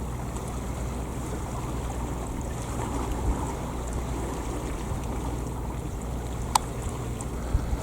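Steady low drone of a boat's engine with a wash of water and wind noise on the microphone. A single sharp click comes about six and a half seconds in.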